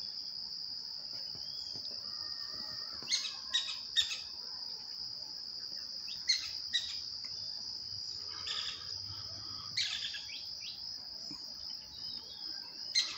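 A steady, high-pitched insect trill runs throughout, and a bird gives short, sharp calls in small bursts about five times.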